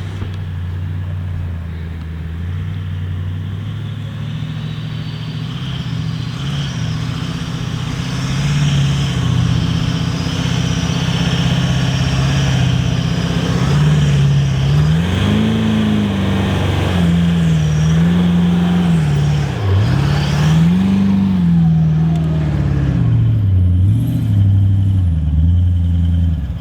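A four-wheel drive's engine working hard, revving up and down as it drives through sand. It gets louder about eight seconds in, and the revs rise and fall repeatedly in the second half.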